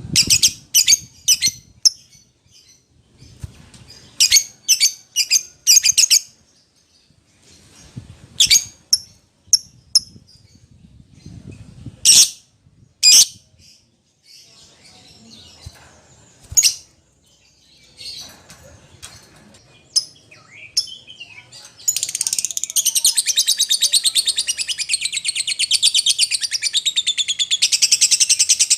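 Lovebird calling: groups of shrill, sharp chirps. About two-thirds of the way through these give way to a loud, continuous fast chatter.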